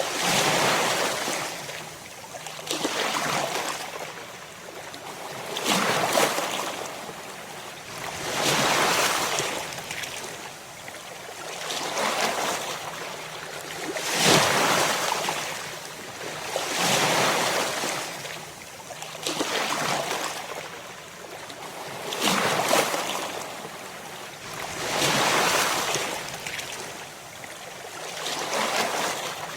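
Ocean waves breaking on a shore. Each wave swells up and washes out, a new one about every three seconds.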